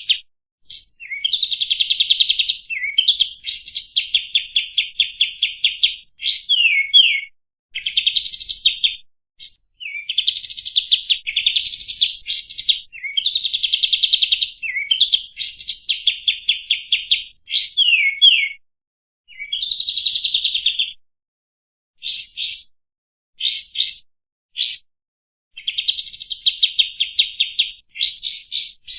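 Kapas tembak, a bulbul, singing loud, fast trilled chatter in phrases a second or two long, broken by short gaps and by single sharp down-slurred notes.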